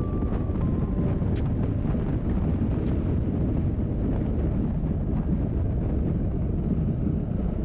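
Steady wind rush and low road rumble of a motorcycle riding along, with wind buffeting the camera microphone.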